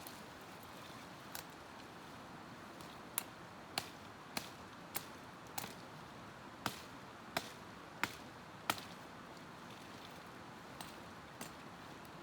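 A run of about eight sharp knocks in a steady rhythm, a little more than one a second, with a few fainter knocks before and after, over a steady background hiss.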